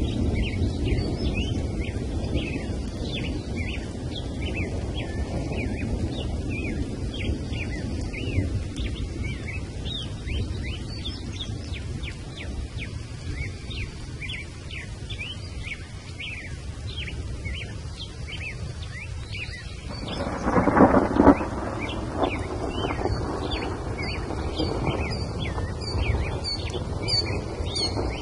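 Outdoor nature ambience: a steady low rumble under a continuous run of short high chirps. A louder, lower-pitched call comes about twenty seconds in, and faster, higher chirps come near the end.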